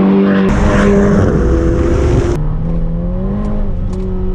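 Ferrari Portofino's 3.9-litre twin-turbo V8 driving past close by, with a sudden louder rush about half a second in. About two seconds later the sound cuts to the engine running inside the cabin, its pitch rising and falling slightly.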